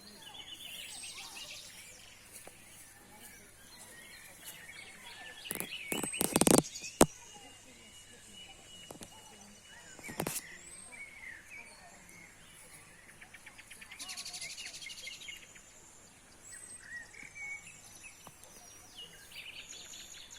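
Several small birds chirping, with short calls and fast trills. A few loud sharp knocks come about six to seven seconds in and again near ten seconds.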